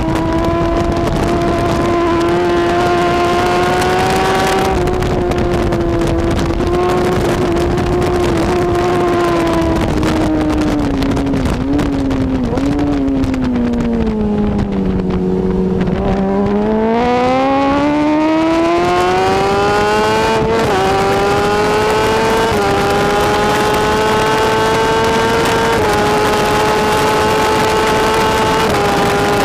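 BMW S1000RR superbike's inline-four engine at racing speed. The high engine note eases off and falls as the bike slows and shifts down about halfway through. It then climbs again through several quick upshifts, each a brief dip in pitch.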